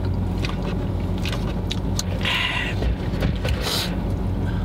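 Car engine idling, a steady low hum heard inside the car's cabin, with two short higher-pitched rustling noises about halfway through.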